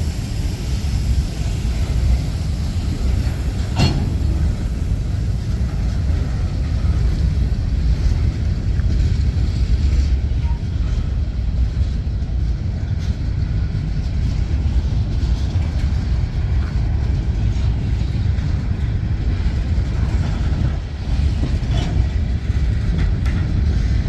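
Freight cars of a manifest train, covered hoppers and boxcars, rolling past in a steady low rumble of wheels on rail. A single sharp clank comes about four seconds in.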